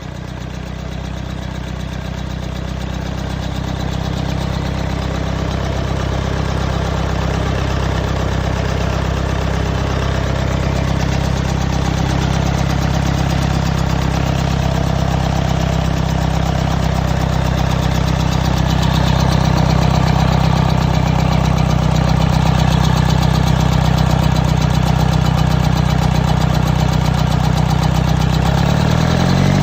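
Cummins diesel engine running steadily at idle, growing a little louder over the first twenty seconds. Its pitch starts to rise just before the end as it begins to rev up.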